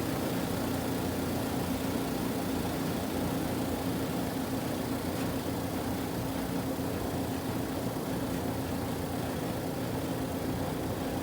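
Kuppet portable washing machine running through its cycle: a steady motor hum with one constant tone, unchanging throughout.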